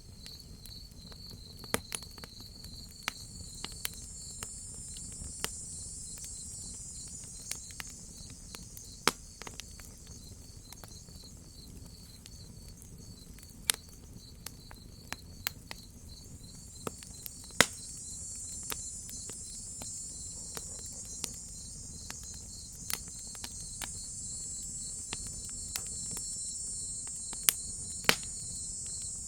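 Crickets chirping in a steady, fast pulsed trill, under a higher insect chorus that swells up twice, with irregular sharp crackles and pops from a wood fire.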